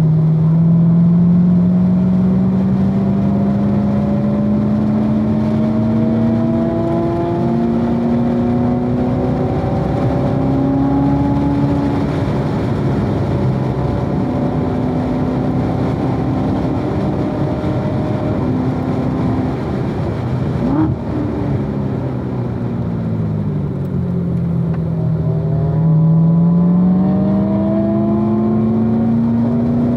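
2016 Corvette Z06's supercharged 6.2-litre LT4 V8 at track pace: the engine note climbs slowly under acceleration and holds, falls as the car slows about two-thirds of the way through, then climbs again near the end. A single brief click sounds just as it starts to slow.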